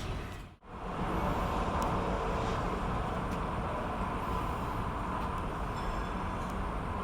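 Steady city traffic din that cuts out briefly about half a second in, then carries on unchanged.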